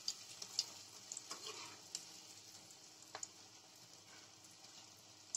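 Bread slices shallow-frying in desi ghee: a faint steady sizzle broken by scattered sharp crackles and clicks while a perforated metal spoon turns the slices in the kadhai.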